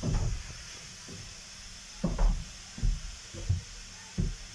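Steam locomotive working slowly, a steady hiss of steam under low exhaust chuffs that come roughly every 0.7 s from about two seconds in.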